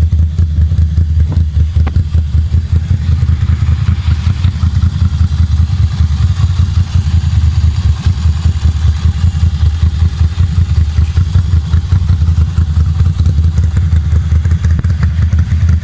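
Ducati Monster cafe racer's V-twin engine idling steadily, with a deep, uneven pulsing exhaust beat.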